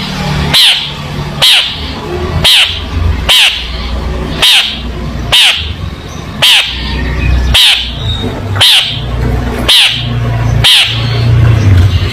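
Long-tailed shrike (cendet) giving a short, harsh call about once a second, a dozen times in a row, over a steady low hum.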